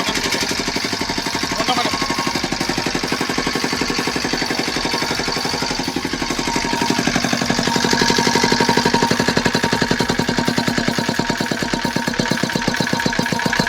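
5 hp single-cylinder diesel engine running, with a steady rapid beat of firing strokes that grows somewhat louder about seven seconds in.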